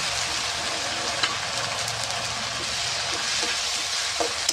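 Stone-ground ginger, garlic and cumin paste sizzling steadily in hot oil in a kadai, with a few light clicks of a spatula stirring it.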